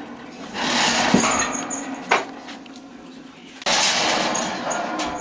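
Wire bird cage rattling and clattering as a kitten climbs it, in two bouts of scraping jostling with a sharp knock just after two seconds.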